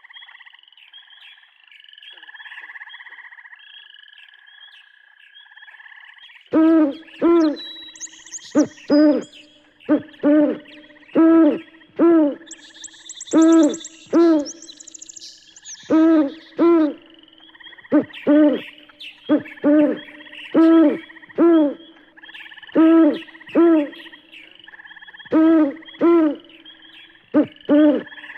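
An owl hooting: low double hoots, repeated about every second and a half, starting about six seconds in. A steady high chirping runs underneath, with a couple of brief very high trills.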